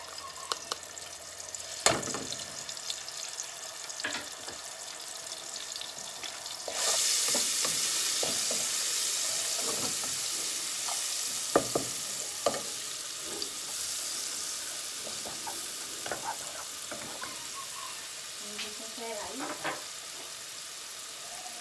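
Chopped seasoning vegetables frying in hot fat in a pot. At about seven seconds in, a loud sizzle starts suddenly and then slowly dies down. A wooden spoon taps and scrapes against the pot as the food is stirred.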